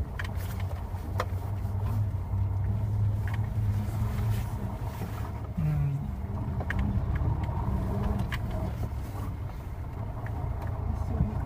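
Moskvich 2140's four-cylinder engine running steadily as the car drives over snow on standard M+S tyres, a low even hum, with scattered sharp knocks and rattles as it bumps along the track.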